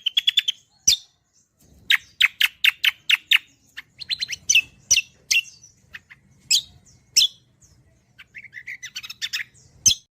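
Greater green leafbird (cucak kombo) in full, lively song: rapid runs of sharp chirps and rattling trills with short pauses between phrases, breaking off abruptly just before the end.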